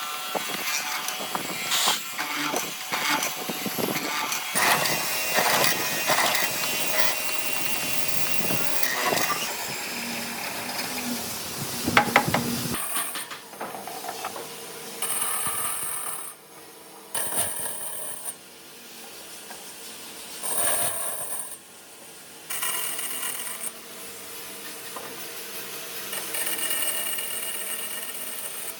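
Woodworking sounds of timber being worked with power and hand tools, changing abruptly every few seconds, with many small clicks and a sharp knock about twelve seconds in.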